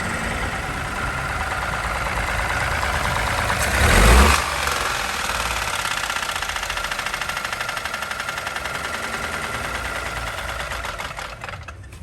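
Ford Ka three-cylinder engine running with a fast, rhythmic knocking tick, swelling briefly about four seconds in. The knock comes with zero oil pressure, which the mechanic puts down, probably, to a deteriorated oil-bath timing belt whose pieces have been sucked into the oil pump pickup.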